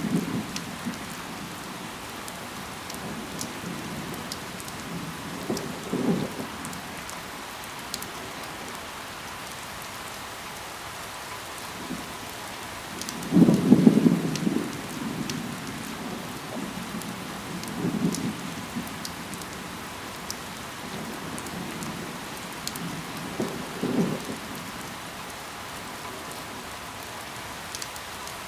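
Steady rain falling on leaves and ground, an even hiss with scattered sharp drop ticks. Five short low rumbling surges stand out over it, the loudest about halfway through.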